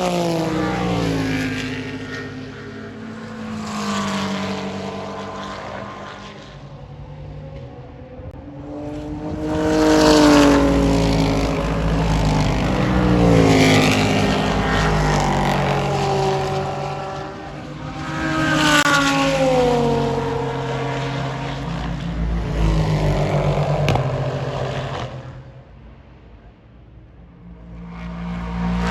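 Race cars going past at speed one after another, each engine note swelling and then sliding down in pitch as the car goes by. There is a short lull near the end before the next car arrives.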